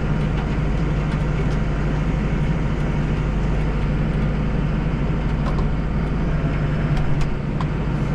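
Deutz 5120G tractor's diesel engine running steadily under load while driving a snowblower through heavy wet snow, a constant low hum with a hiss of blown snow over it.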